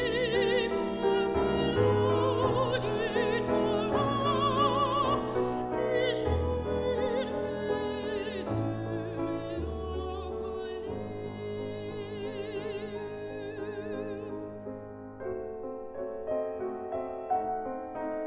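Classical soprano singing with a wide vibrato over piano accompaniment. The voice ends about three-quarters of the way through, leaving the piano playing alone.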